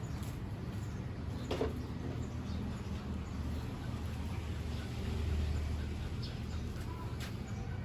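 A few faint clicks and knocks of hand tools on motorcycle parts, over a low steady rumble.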